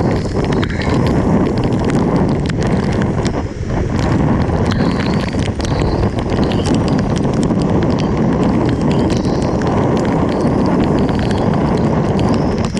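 Heavy rain falling steadily, with many sharp taps of drops striking a hard surface close by.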